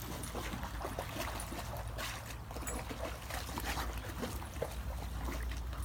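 A dog moving about in shallow water, with many small, irregular splashes and sloshes.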